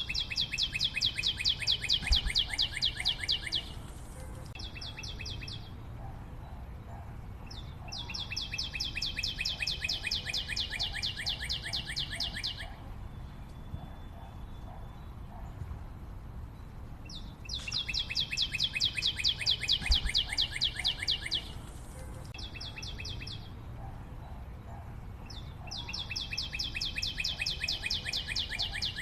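A high, very rapid trill, each lasting about four to five seconds and followed by a shorter trill, repeating about every eight to nine seconds over a low steady rumble.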